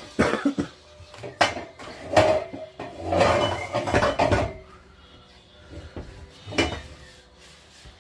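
Hard parts of a mini ceiling fan knocking and clattering as they are handled and fitted together: a string of sharp knocks, a busy jumble of rattling in the middle, and one last knock near the end.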